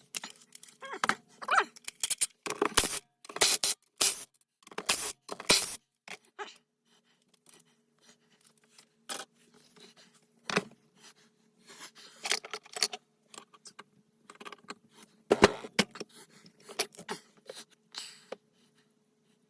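Intermittent clinks, knocks and scrapes of metal tools and parts being handled during the teardown of a 231J transfer case. The sounds come thick in the first few seconds and thin out after, over a faint steady hum.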